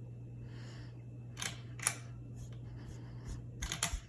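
Hampton Bay Huntington III ceiling fan running at medium speed with a steady low motor hum. A few light mechanical clicks come twice in the middle and several more near the end.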